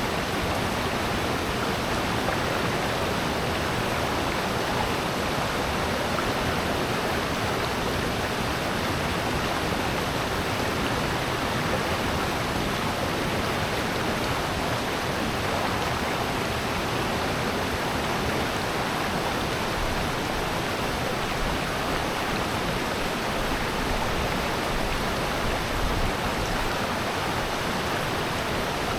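Steady rush of flowing water in a valley stream, an even, unbroken noise.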